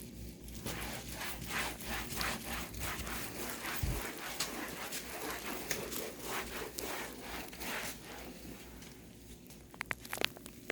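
Repeated rubbing or wiping strokes, a couple each second, easing off after about eight seconds, then a few sharp clicks near the end.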